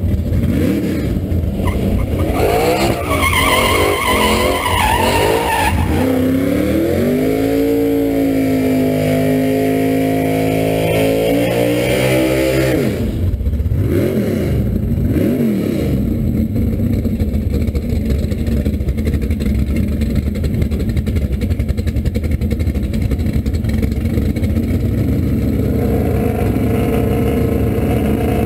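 Twin-turbocharged S550 Ford Mustang engine revving hard, its pitch climbing and wavering through the first half. The pitch drops sharply about thirteen seconds in and rises briefly twice more. The car then runs on with a steady loud rush of noise.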